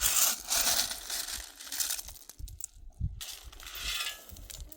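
Loose small pebbles being poured out and rattling against each other, in two long pours: one at the start and another from about three seconds in.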